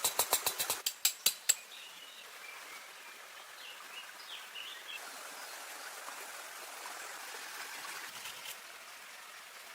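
A fast run of sharp strikes with a slight metallic ring, about five a second, stopping about a second and a half in. After that, steady running water with faint bird chirps.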